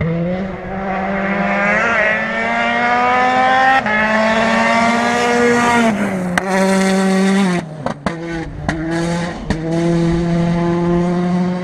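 Rally car engine at full throttle, its pitch climbing with steps at the gear changes. About six seconds in it lifts off, with a string of sharp pops and bangs, then holds a steady note.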